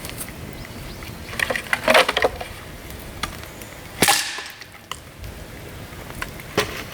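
Dry bamboo cracking and splintering: a cluster of crackles about two seconds in, one sharp loud crack about four seconds in, and a few lighter cracks near the end.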